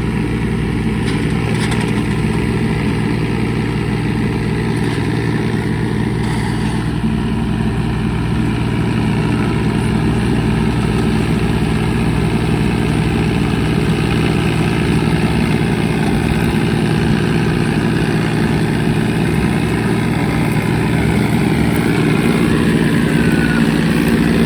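John Deere 5039 tractor's diesel engine running steadily, growing slightly louder near the end.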